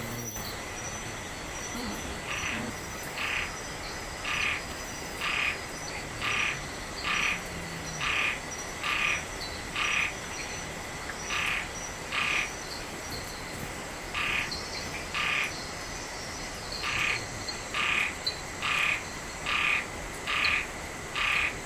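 A frog calling over and over in a tropical wetland at night: a short call about once a second, about twenty in all, with two brief pauses, over a steady high hum of background tones.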